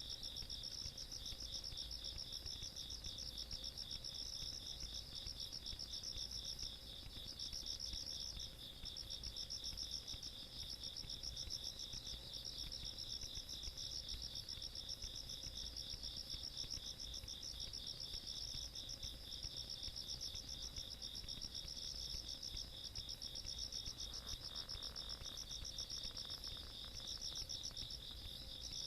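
A chorus of night insects calling in late summer, with no let-up. A lower, even, pulsing trill runs alongside a higher trill that swells and fades in phrases about every two seconds.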